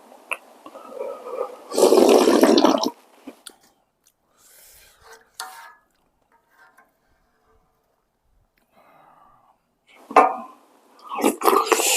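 A person slurping ramen: one loud, wet slurp lasting about a second, about two seconds in, then faint small eating sounds, and more slurps near the end.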